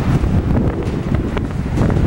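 Wind buffeting the microphone: a loud, uneven low rumble with scattered crackles.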